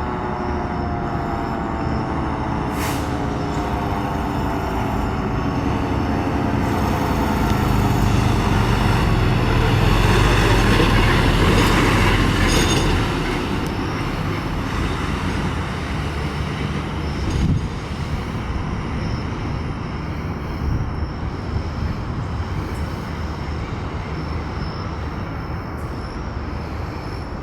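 Fire engine's mechanical siren, a Federal Q2B, winding down in pitch and fading over the first few seconds, then the apparatus's engine and road noise swelling loud as it passes, peaking around ten to twelve seconds in before settling to a steady rumble. A sharp click stands out near the middle.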